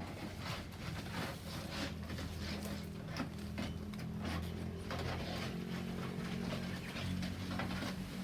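A steady low engine-like hum with irregular light clicks and taps over it.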